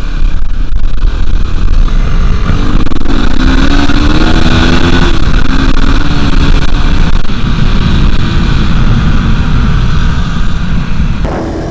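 Dirt bike engine revving under way, its pitch rising for a couple of seconds and then holding, over heavy wind rumble on the microphone. It drops to a quieter, steadier note just before the end.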